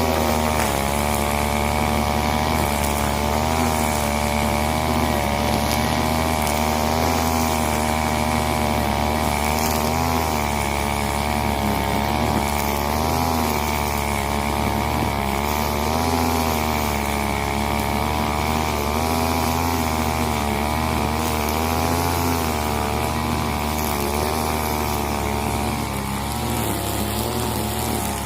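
Husqvarna 541 brush cutter's two-stroke engine running at working speed, its pitch rising and falling slightly as it cuts through the growth.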